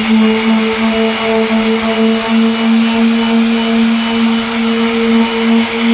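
Handheld electric sanding machine running steadily at full speed: a steady motor hum with an even higher whine over a hiss.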